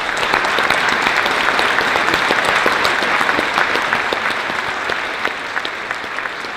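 Audience applauding, a crowd in a school assembly clapping steadily, swelling at the start and tapering off slowly toward the end.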